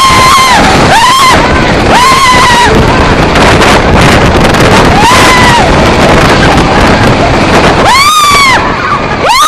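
Riders screaming on the Lightning Racer wooden roller coaster, several short held screams over a loud rush of wind on the microphone and the rumble of the train on the track.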